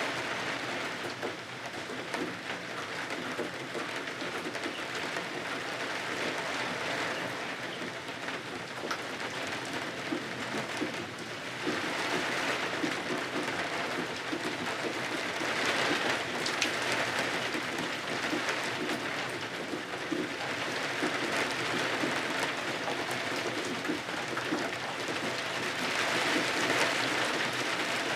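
Steady rain falling, its hiss swelling and easing every few seconds.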